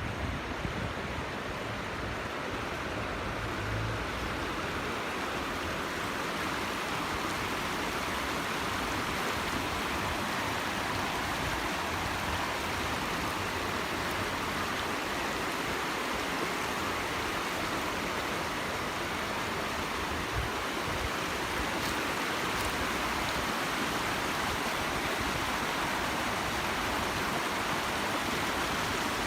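Steady rush of falling water from a small waterfall, growing a little louder over the first few seconds and then holding even.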